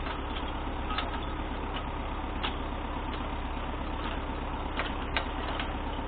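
MTZ-892 tractor's diesel engine idling steadily, with a few short sharp metallic clicks over it.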